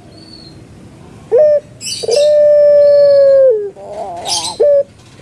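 Puter pelung dove (Streptopelia risoria) singing its song: a short note, then a long, steady, drawn-out coo that drops in pitch at its end, followed by a wavering rolling note and another short note.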